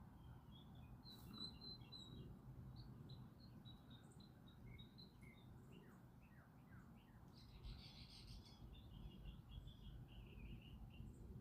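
Faint songbirds chirping, a steady run of short high chirps with a denser, louder burst of chatter about three-quarters of the way through, over a low steady background rumble.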